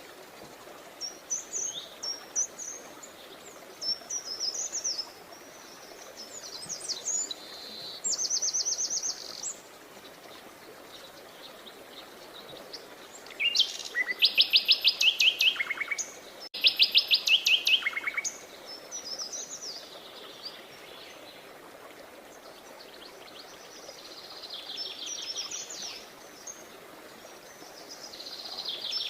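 Songbirds chirping and singing in short high phrases over a steady background hiss. About halfway through, one bird gives two loud, rapid trills of evenly repeated notes, each dropping in pitch at the end.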